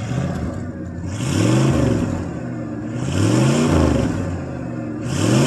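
Ford 5.0 L (302) V8 exhaust, running through an 18-inch glass pack with no catalytic converters, revved from idle in repeated blips. Each rev rises and falls back, about every two seconds. It sounds pretty tame even when revved.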